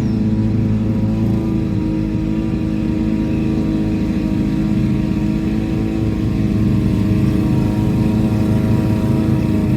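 Lawn mower engine running steadily under load.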